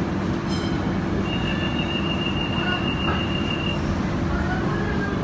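First-generation Hong Kong Light Rail car running, with a steady low hum. About a second in, a single high steady squeal begins, typical of wheels squealing on the rails, and it stops after about two and a half seconds.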